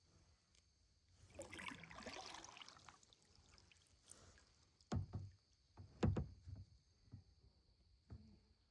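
A kayak paddle stroke, with water splashing and trickling off the blade about a second in. Then come two sharp knocks about a second apart and a few lighter taps.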